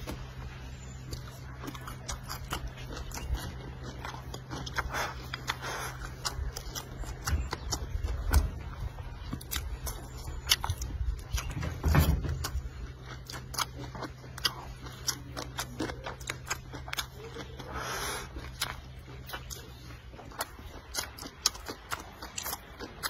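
Close-up eating sounds of a man chewing mouthfuls of rice and cured pork, with many short wet clicks and smacks from his mouth and chopsticks.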